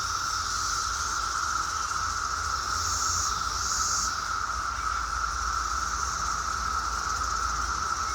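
Steady, unbroken chorus of insects in two high pitches, swelling a little about three seconds in, over a low rumble.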